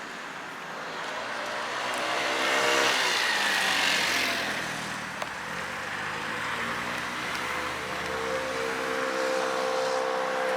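BMW Z4 sports car engine accelerating: its pitch rises about two seconds in and eases off around five seconds. It then climbs again and holds steady near the end.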